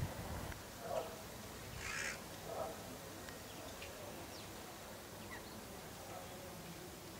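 Birds calling: three short, harsh calls in the first three seconds, then a few faint high chirps.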